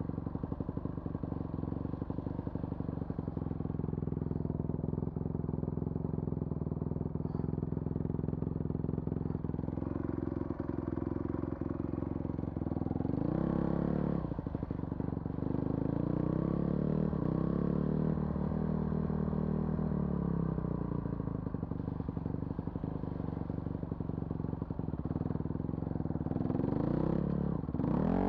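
Vehicle engine running steadily while driving, its pitch rising and falling as the engine speed changes about halfway through, with a brief dip near the end.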